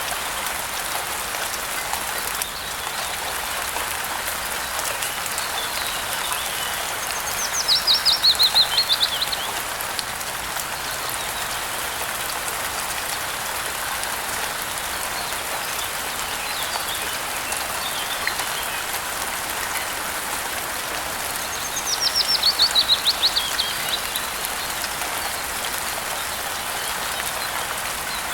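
Steady rain falling, with a bird twice singing a loud, fast trill that drops in pitch over about two seconds, and a few fainter bird notes between.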